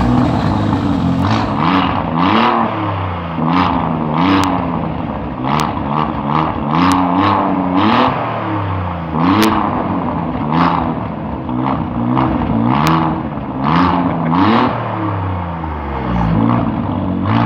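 Alfa Romeo Giulia Quadrifoglio's 2.9-litre twin-turbo V6 revved again and again, about a dozen blips that each rise and fall, through the exhaust with its butterfly valve open in race mode. Sharp cracks come between some of the blips.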